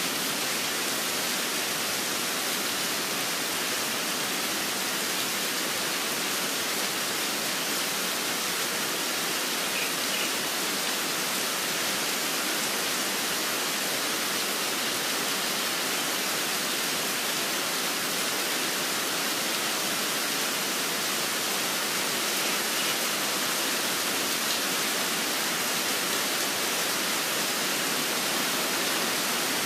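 Steady rain falling, an even hiss without breaks, with two faint, brief high chirps from a bird partway through.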